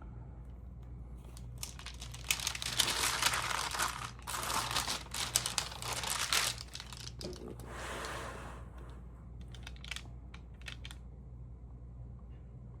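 Stamp album pages being turned and handled, a crinkly rustle for several seconds, then a shorter rustle and a few light clicks.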